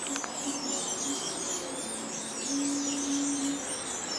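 Small birds chirping continuously in the background, many quick rising and falling calls, over a low steady hum that grows louder for about a second past the middle.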